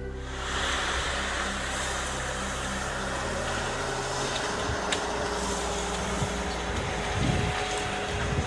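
A heavy machine's engine running steadily, with a few sharp cracks or clicks over it, one about halfway through.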